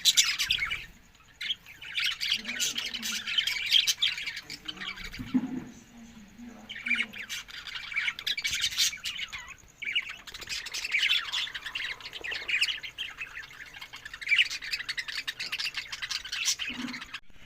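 Budgerigars chattering and squawking in bouts of a few seconds each, with short pauses between them.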